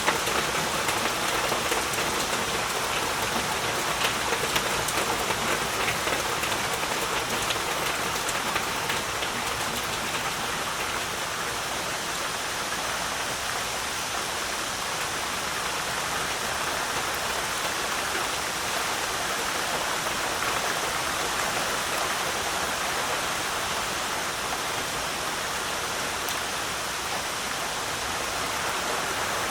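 Heavy rain falling steadily, a dense hiss of drops with fine pattering ticks, a little busier in the first several seconds.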